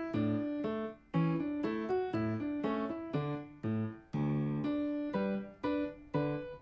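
Background piano music: a steady run of struck notes, about two a second, each fading before the next.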